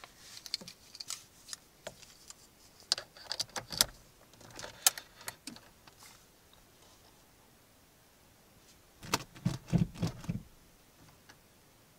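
Keys jangling and clicking for the first few seconds, then a short cluster of low thumps about nine seconds in.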